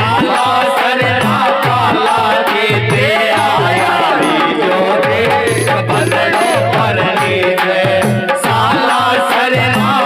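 Rajasthani Fagan folk music: an electronic organ melody over a steady dholak drum rhythm.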